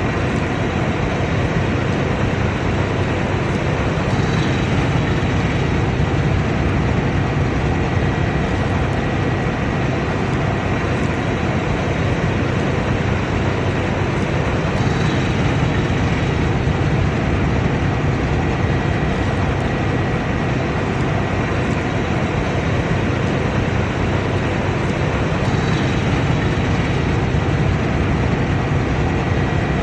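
Combine harvester running steadily: an even machinery drone with a thin, steady high whine over it.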